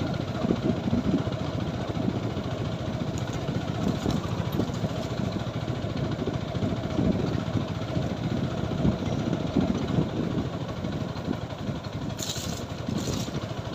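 Single-cylinder engine of a TVS Apache 4V motorcycle running steadily while under way, with a dense low rumble. Two brief high hisses come near the end.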